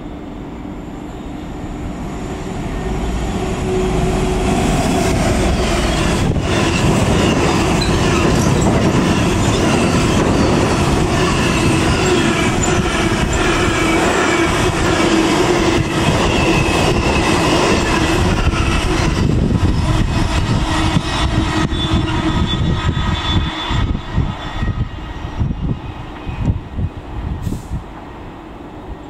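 A Class 66 diesel locomotive passes hauling a long freight train. The sound builds over the first few seconds, then the wagons rumble and clatter past with a thin squeal from the wheels, and it dies away unevenly near the end as the tail of the train recedes.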